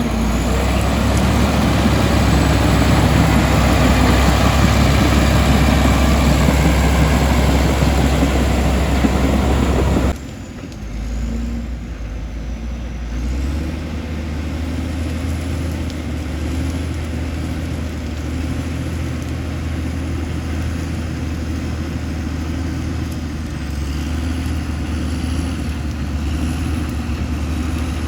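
Komatsu D65E bulldozer's diesel engine working hard with a heavy low drone. About ten seconds in it drops abruptly to quieter, steady running.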